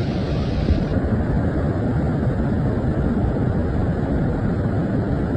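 Floodwater from rain rushing down a stream as a loud, steady rumble; the sound turns duller about a second in.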